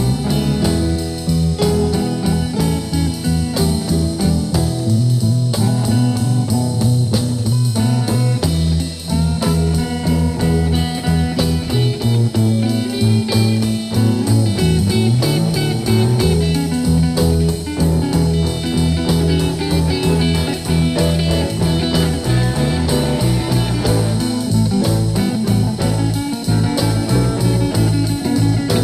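Blues guitar playing an instrumental passage: a run of picked notes over a walking low line, with no singing.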